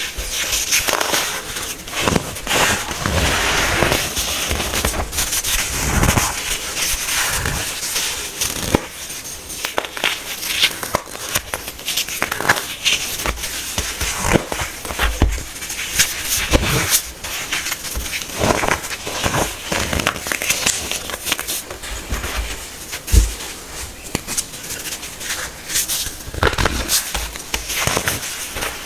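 Hard, compressed baking soda being crushed, giving a dense, irregular crunching with sharp snaps, a few of them louder.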